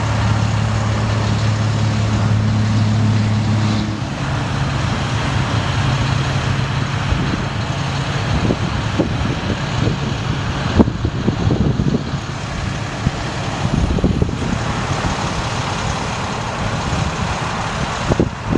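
A 2005 International 4300 bucket truck's diesel engine running steadily. About four seconds in its note steps up to a higher pitch, and later there are scattered knocks and clunks.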